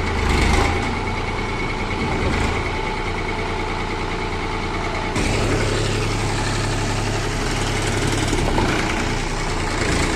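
Tractor engine running steadily at idle, a low continuous hum; about halfway through it abruptly gets a little louder.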